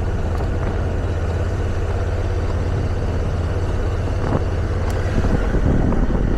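Motorcycle engine running steadily while riding a gravel road, with a few brief clicks about four to five seconds in.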